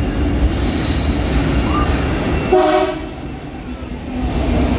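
Freight train rumbling steadily, with a short horn toot about two and a half seconds in.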